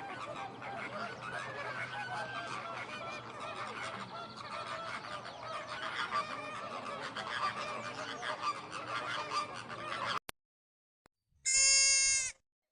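A flock of domestic fowl calling over one another, many wavering calls at once, cutting off abruptly about ten seconds in. After a short pause comes one loud, steady goose honk lasting about a second.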